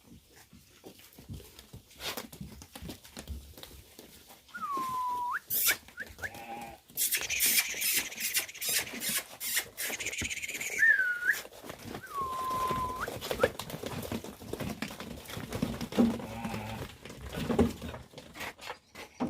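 Sheep and lambs moving about in a pen: bleating, rustling and knocks, with a few short whistle-like tones.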